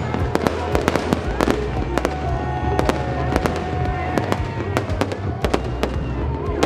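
Aerial fireworks display: many sharp bangs and crackles from bursting shells, several a second in an irregular barrage, over music.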